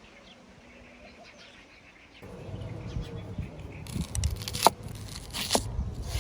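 Faint bird chirps over a quiet outdoor background; about two seconds in a louder low rustling, handling noise starts, with two sharp knocks near the end.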